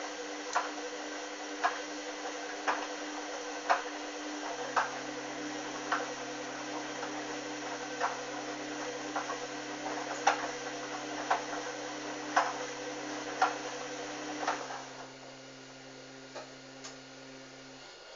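Hoover Dynamic washing machine in a 30 °C main wash: the drum turns with a steady motor sound and a sharp click about once a second. About fifteen seconds in the drum stops, leaving a low steady hum that cuts off near the end.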